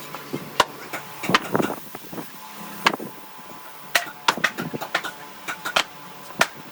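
Irregular sharp knocks and clacks of hand work in a woodworking shop, uneven in spacing and strength, with no machine running.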